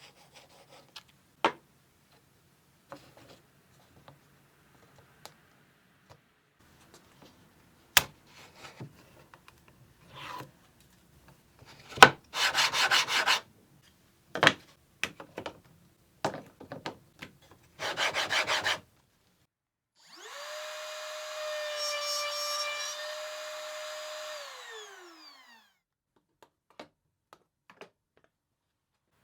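Woodworking sounds: scattered knocks and clicks of wood pieces being handled, two short rough bursts of rubbing or sawing on wood, then a small power tool's electric motor spinning up, running steadily for about four seconds and winding down.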